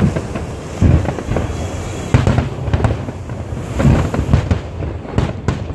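Japanese aerial firework shells bursting in quick succession: deep booms at uneven intervals, several close together near the end, over a continuous crackle of bursting stars.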